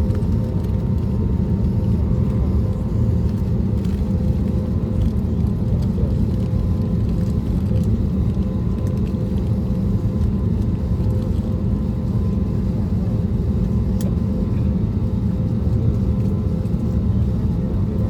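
Steady low rumble inside the cabin of an Airbus A320neo with CFM LEAP-1A engines, engine and airflow noise, with a faint steady hum.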